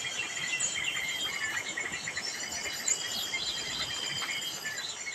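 Small birds chirping in quick, repeated short calls over a steady high-pitched insect buzz.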